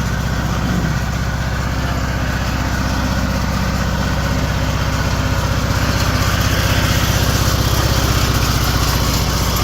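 Riding lawn mower's small engine running steadily, with a rapid even firing pulse, growing a little louder about halfway through.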